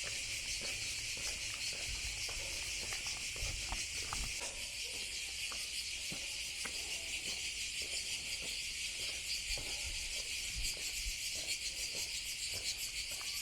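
A steady chorus of cicadas buzzing, with scattered footsteps throughout.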